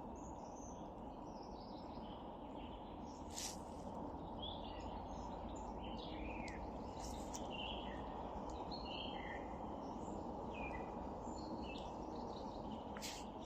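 Several small songbirds chirping and calling in short, scattered notes in early spring woodland, over a steady low background rumble. A few sharp clicks stand out, one about three seconds in and one near the end.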